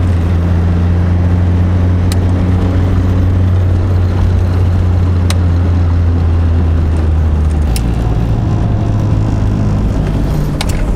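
Heard from inside the cab, a 1984 Shelby Dodge Rampage's turbocharged 2.2-litre four-cylinder engine drones steadily under way. About three-quarters of the way through the note drops and softens as the truck eases off. A few light clicks sound over it.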